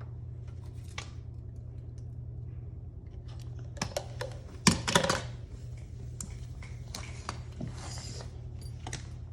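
Small plastic clicks and clatter of toy trash cans being handled and tipped into a toy garbage truck, with a cluster of knocks about four to five seconds in, over a steady low hum.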